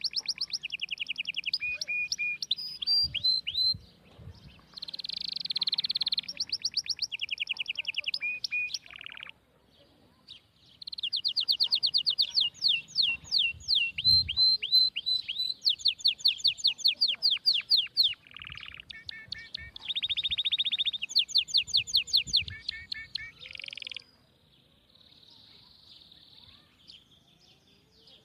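A small songbird singing in long, fast trills and chirping phrases, with short breaks between phrases.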